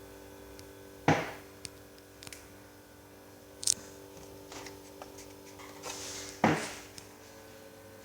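Elitesat mini ceiling fan running with a steady motor hum, broken by two loud sharp knocks about a second in and near the end, with fainter clicks between.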